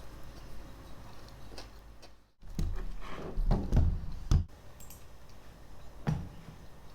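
A cluster of dull knocks and thunks about a third of the way in, after a brief drop-out, and one more knock near the end.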